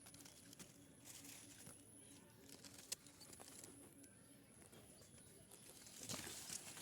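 Near silence: faint scattered rustling and small ticks, with one sharp click about three seconds in.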